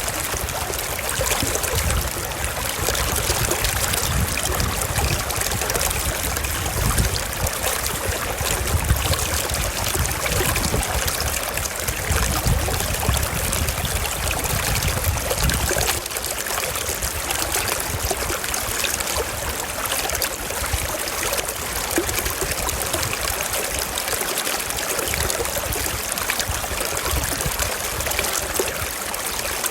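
Mountain stream flowing over rocks: steady rushing and trickling water, with a low rumble underneath that drops away about halfway through.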